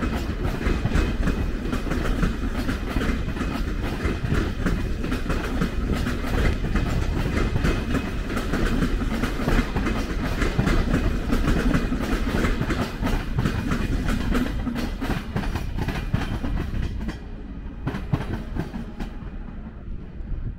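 ÖBB Railjet electric passenger train pulling out, its carriages' wheels running and clicking rapidly over rail joints and points. The noise drops off near the end as the train moves away.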